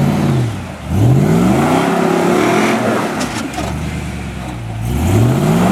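Off-road 4x4's engine revving in repeated surges under load: the pitch sags just under a second in, climbs hard and holds, eases off, then climbs again near the end. A few sharp clicks sound about halfway through.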